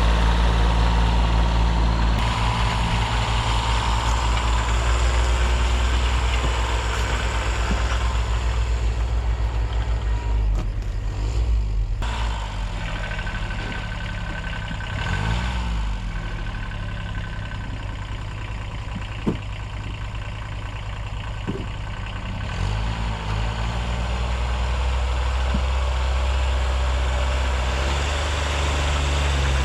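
1978 Kubota B6100's 14 hp diesel tractor engine running, its speed changing several times, with one short click about two-thirds of the way through.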